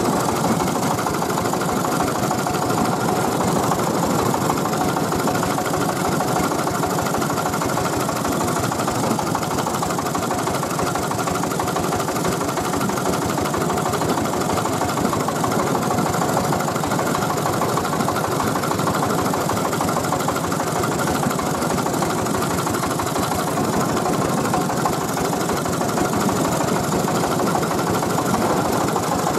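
Tiger 24 PK diesel engine of a three-wheeled mobile rice mill running steadily at an even speed.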